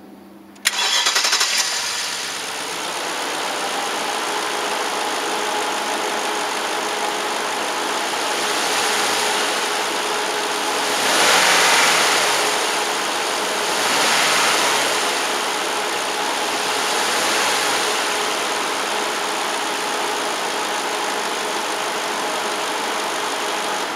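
2009 Kia Borrego's engine starting with a sudden catch about a second in, then idling steadily. The idle is broken by several brief revs in the middle, the strongest at about the halfway point.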